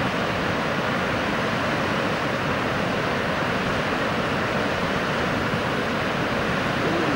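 Fast-flowing river water rushing steadily, an even unbroken noise.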